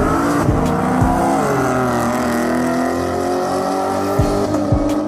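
Race cars running hard at high revs, the engine note sagging in pitch in the first second and a half and then holding steady.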